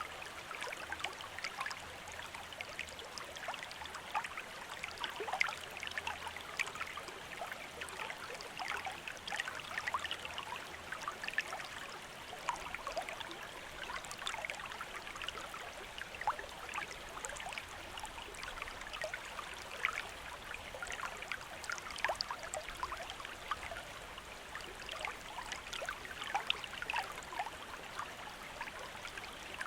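Shallow stream running and trickling over stones, a steady rush full of small splashes and droplet ticks.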